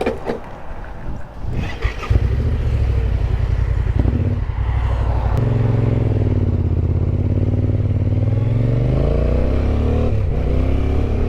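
Yamaha Ténéré 700's parallel-twin motorcycle engine running, loud from about two seconds in, its revs rising and falling as the bike rides. A few clattering knocks come before it.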